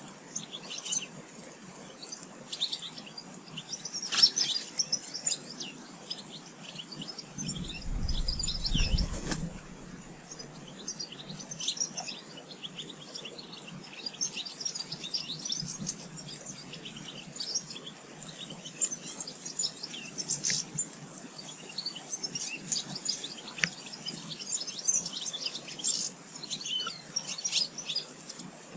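Small songbirds chirping and twittering continuously, many short high calls overlapping. A brief low rumble comes about eight seconds in.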